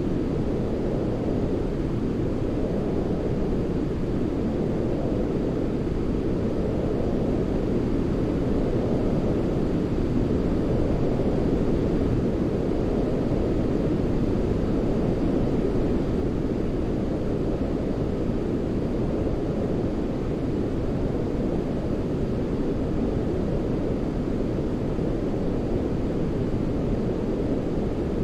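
Continuous, unchanging sleep noise for soothing a baby. It is weighted toward the low end, so it sounds like a deep, even rumbling hiss rather than a bright one, close to brown noise.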